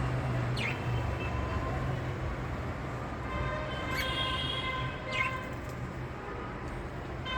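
A few short, falling bird chirps over a steady low hum of background traffic. A long, even horn-like tone sounds for about two seconds in the middle.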